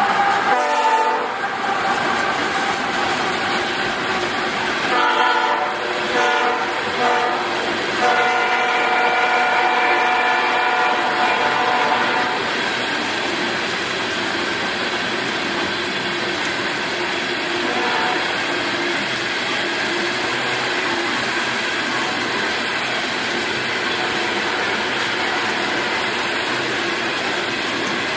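Locomotive horn blowing for a grade crossing: a blast at the start, a broken stretch around six seconds in, then one long blast that stops about twelve seconds in. After that the train rolls steadily past with a rumble and some clickety-clack of the wheels.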